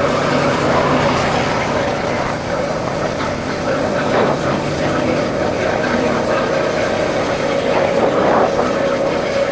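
Royal Enfield Bullet motorcycle's single-cylinder engine running steadily on the move, with a constant mid-pitched drone over rushing noise.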